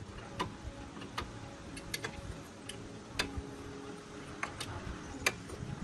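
A string of sharp, irregular clicks and taps, about a dozen in a few seconds, over a low rumble.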